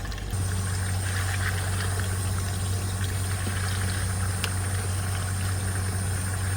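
Hydro jetter's engine and high-pressure pump running steadily with a low, even hum that kicks in suddenly just after the start, over a hiss of water.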